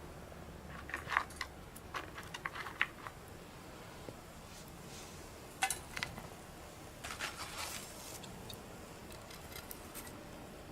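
Light clicks and clinks at a small wood fire in a stainless steel mini fire pit, coming in three short clusters, with a faint steady background between them.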